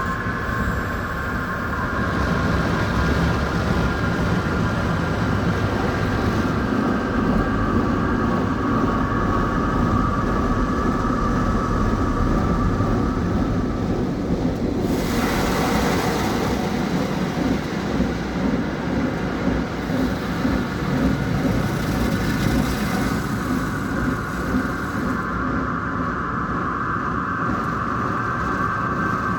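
Christ Varius automatic car wash machinery running: a steady low rumble under a whine of several close tones. About halfway through, the whine fades and a burst of hissing spray takes over for a couple of seconds. The whine comes back near the end.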